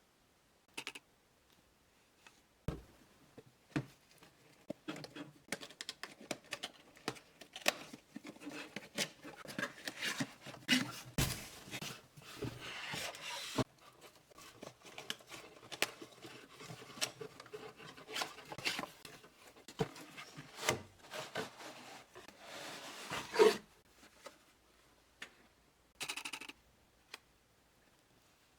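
Doll box packaging being handled and opened by hand: irregular clicks, scrapes and crinkling of cardboard and plastic, with a louder snap near the end.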